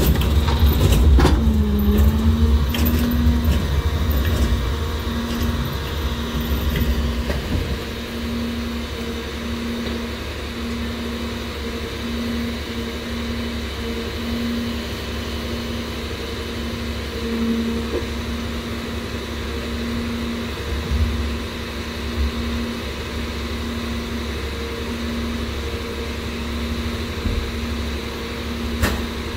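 Rear-loader garbage truck's engine idling with a steady hum, after a few knocks in the first couple of seconds.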